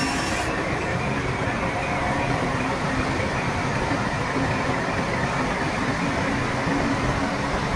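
Heavy earthmoving machinery, a bulldozer's diesel engine, running steadily.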